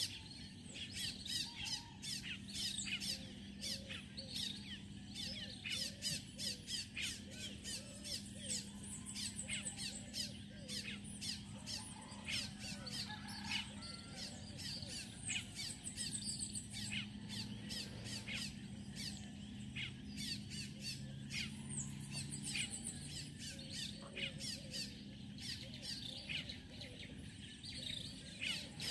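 Birds chirping and calling, many short repeated chirps one after another, with a steady low hum underneath.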